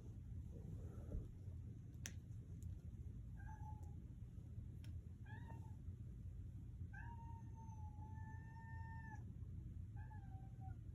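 Small kitten meowing four times, the third meow long and drawn out. A single sharp click about two seconds in.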